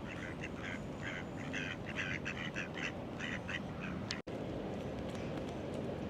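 A duck quacking, a rapid run of about a dozen short quacks over three to four seconds, over a steady low city rumble. The sound cuts out for an instant about four seconds in.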